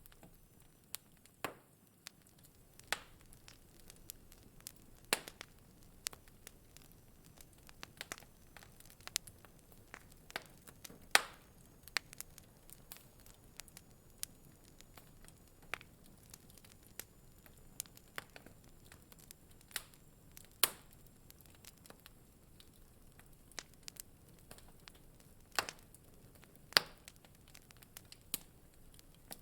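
Wood fire crackling in a fireplace: irregular sharp pops and snaps over a faint hiss, with a few louder pops now and then.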